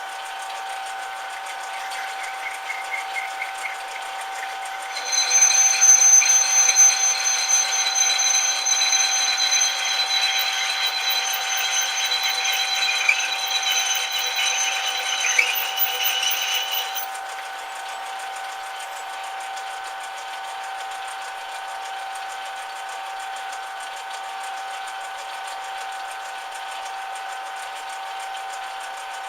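Metal lathe running with a steady whine of fixed tones. About five seconds in, a louder, high-pitched ringing joins it for roughly twelve seconds, typical of a tool working the metal, then stops and the steady running whine is left.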